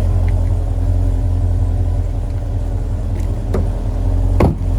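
2013 Chevrolet Corvette Grand Sport's 6.2-litre LS3 V8 idling steadily, with a click past halfway and a thump near the end.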